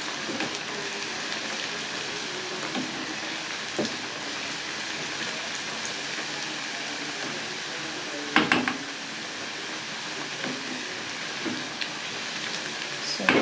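Onions frying in a pan with a steady sizzle. A few short clinks and knocks of a spoon stirring against the pan come through it, the loudest about eight and a half seconds in.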